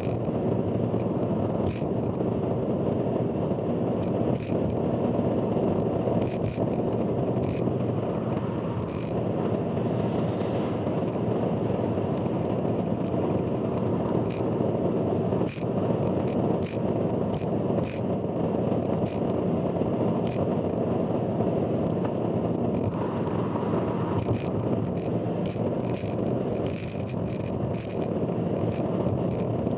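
Car driving on an expressway, heard from inside the cabin with the footage sped up four times: a steady dense road and engine rumble with frequent irregular clicks and rattles over it, the loud abnormal noise the recording is known for.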